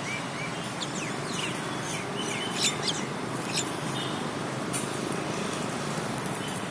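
Birds chirping: short, high chirps that fall in pitch, a few at a time, over a steady background hiss.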